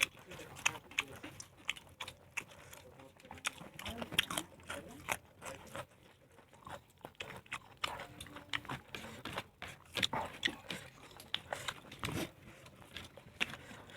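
A person eating and chewing close to the microphone, making many small irregular clicks and smacks.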